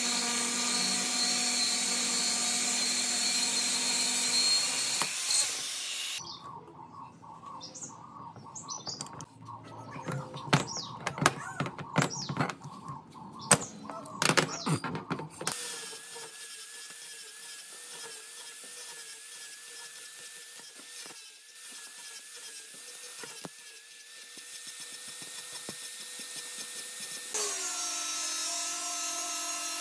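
Workshop power tools in several separate takes: a motor runs steadily, then comes a stretch of irregular knocks and scraping on metal, then a quieter steady whine, and near the end another motor starts running.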